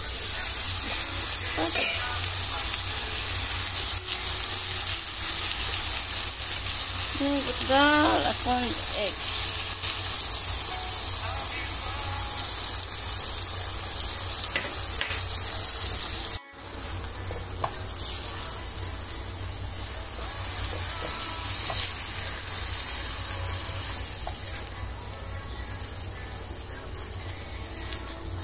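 Diced zucchini, tomato and beaten egg sizzling in a hot nonstick frying pan, stirred with a silicone spatula as the egg scrambles. The sizzle is steady and drops lower for the last few seconds.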